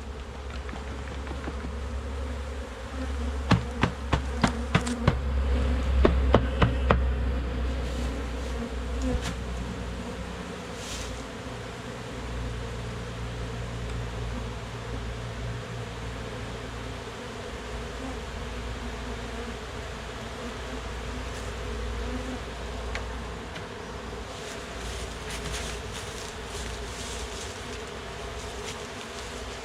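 A mass of honeybees buzzing steadily as they are dumped into a new hive. A few seconds in comes a quick run of a dozen or so sharp knocks.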